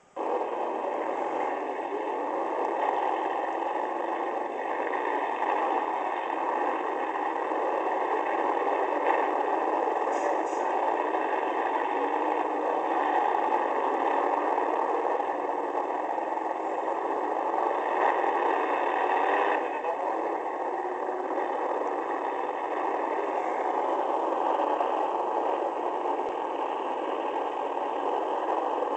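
Demolition derby car's engine running hard, heard from inside the car as a steady, rough drone.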